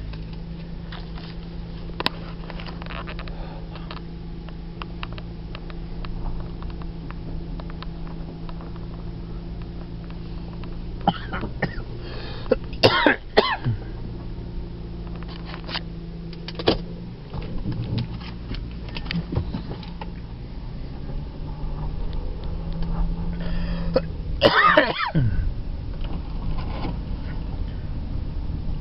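Steady low hum of a car engine running, with scattered light clicks and two short coughs, one about halfway through and one near the end.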